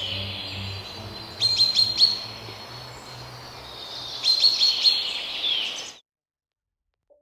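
Birds chirping: two bursts of quick chirps and short whistled glides a few seconds apart, over a faint low hum, cutting off suddenly about six seconds in.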